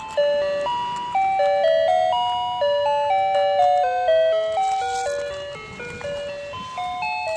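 A simple electronic melody of plain beeping notes, a few notes a second, the kind of tinny tune a battery-operated spinning fishing game toy plays while it turns.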